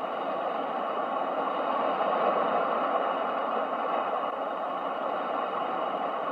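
Ocean waves for sleep: a steady rushing wash that swells gently about two seconds in and slowly eases off.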